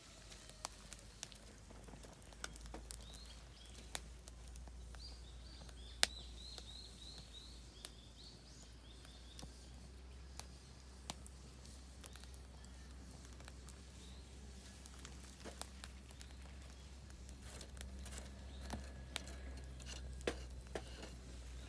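Oak firewood crackling in a campfire: scattered sharp pops and snaps at irregular intervals, the loudest about six seconds in. A bird calls a quick run of short high notes from a few seconds in.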